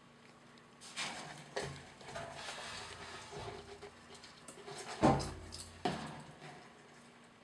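A bearded dragon feeding on dubia roaches: scuffling and rustling with a few sharp knocks, the loudest a thud about five seconds in.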